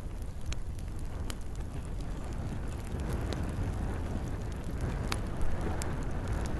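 Campfire burning with scattered sharp crackles and pops over a steady low rumble and hiss, with rain falling.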